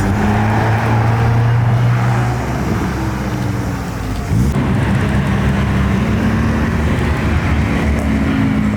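Car engines running at low revs as cars roll slowly past one after another; one engine note fades about two and a half seconds in, and another car's engine comes in suddenly about four and a half seconds in.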